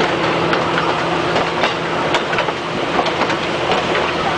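Passenger train running, heard from on board: a steady rumble with a low hum, and irregular sharp clicks of the wheels on the track.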